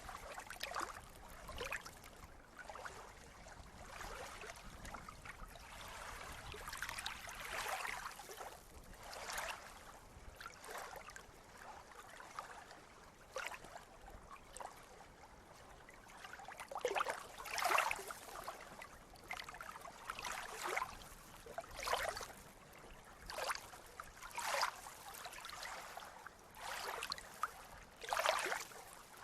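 Small sea waves lapping and splashing at the shore, in irregular splashes about one a second, with several louder ones in the second half.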